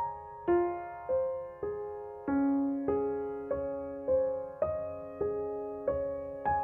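Background music: a slow solo piano melody of single notes, about three notes every two seconds, each struck and left to ring out.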